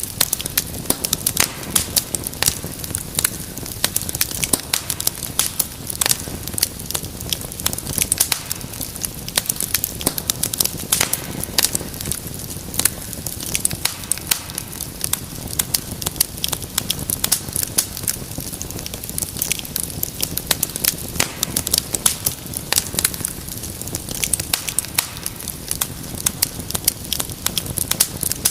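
Wood fire burning in a fireplace, with a steady low rumble of flame and dense, irregular sharp crackles and pops.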